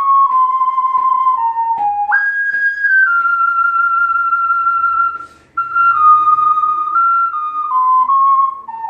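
Ocarina playing a slow melodic phrase: a few notes stepping down, a leap up to a long held high note, a short breath about five seconds in, then notes stepping down again.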